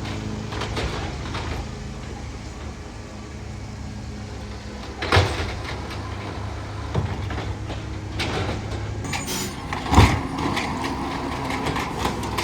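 Garbage truck engine running steadily, with a sharp bang about five seconds in and a louder one near the end, and lighter clattering around them.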